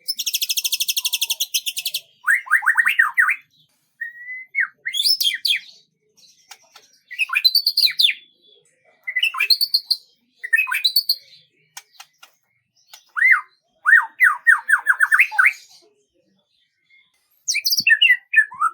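A songbird singing in short, varied phrases separated by brief pauses: a fast, high buzzy trill, then rapid runs of downslurred notes and quick whistled slides.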